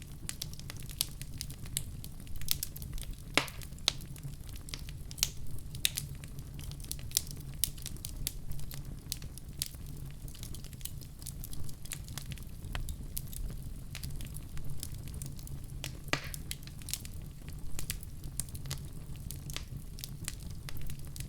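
Wood fire crackling and popping in a fireplace, with irregular sharp snaps over a steady low rumble of flames; two louder pops, about three seconds in and again near sixteen seconds.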